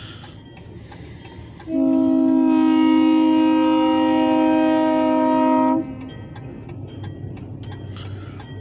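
Locomotive air horn sounding one long, steady blast of about four seconds, a chord of two low tones. Under it is a low rumble.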